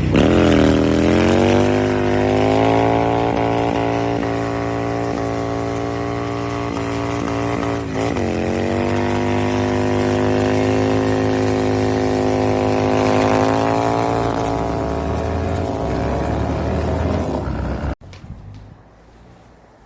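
Motorcycle engine running loud at high, nearly steady revs through an aftermarket exhaust, its pitch dipping briefly about eight seconds in before settling again. It cuts off abruptly near the end.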